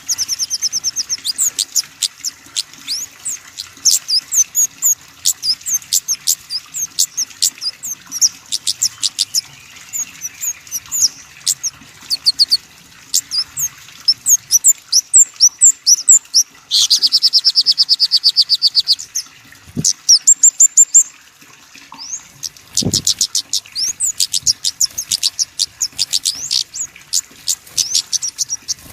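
Small songbirds singing: a steady stream of rapid, high-pitched chip notes and short trills, with a fast, unbroken trill about two seconds long some seventeen seconds in. Two brief low thumps come near the end.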